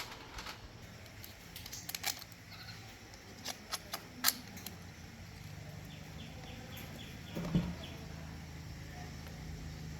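Light metallic clicks and taps, scattered through the first half. From about halfway a low steady hum comes in, with a soft thump a couple of seconds later.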